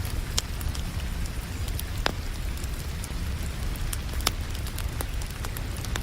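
Wood fire crackling, with a few sharp pops about two and four seconds in, over the steady hiss of rain and a low, even rumble.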